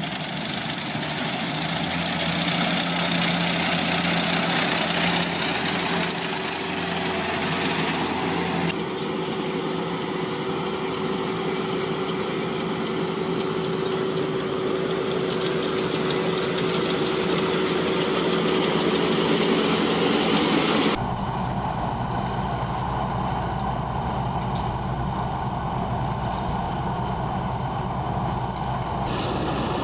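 Heavy engine running steadily. The sound changes abruptly about 9 seconds in and again about 21 seconds in, and a steady whine runs through the middle stretch.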